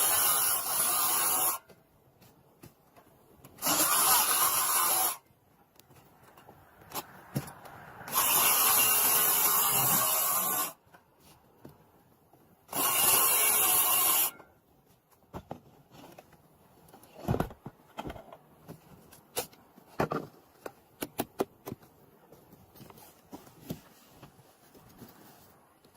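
A power tool run in four bursts of about one and a half to two and a half seconds each, followed by scattered light knocks and taps.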